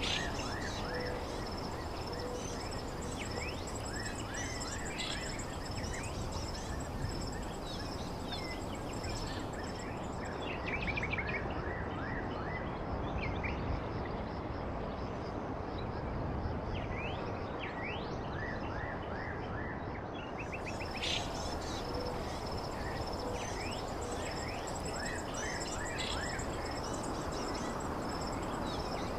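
Small birds chirping and trilling in many short calls over a steady background hiss, with a thin, steady high-pitched tone running underneath.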